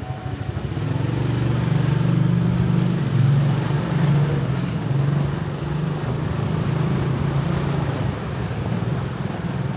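Motorbike engine running steadily while riding, a low hum that grows a little louder about a second in.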